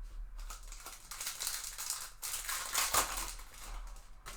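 Crinkling and rustling of a trading-card pack wrapper being handled and opened, loudest about three seconds in.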